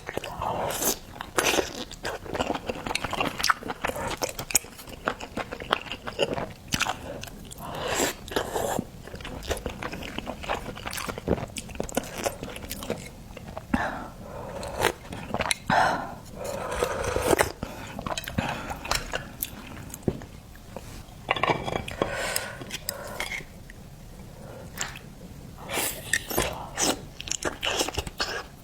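Mukbang eating sounds: a person biting and chewing seafood, with irregular clicks and crunches broken by short pauses.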